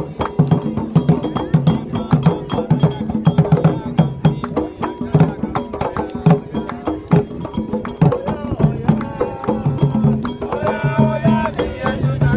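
Candomblé toque: atabaque hand drums playing a fast, dense rhythm with a sharp bell or wood-like click on top, and singing coming in over the drums about ten seconds in.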